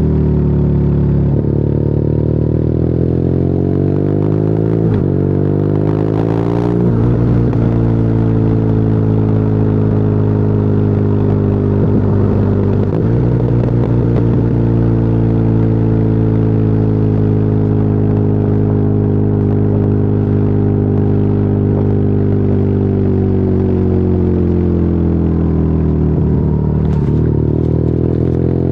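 BMW R nineT's boxer twin through an Akrapovic exhaust, heard from the rider's seat: it pulls up through the gears with shifts in the first seven seconds, then runs at a steady cruise, easing off slightly and changing gear again near the end.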